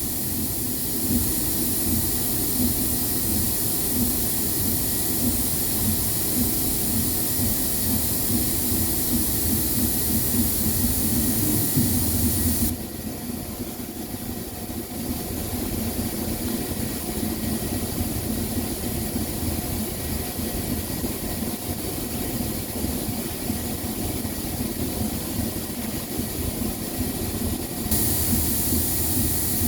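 Steady mechanical drone with a hiss, like an engine running; it drops in level abruptly about thirteen seconds in and comes back up near the end.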